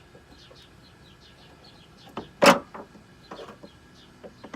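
Work on a car's air filter housing with a screwdriver: several small clicks and one loud, sharp knock about halfway through. Birds chirp faintly in the background.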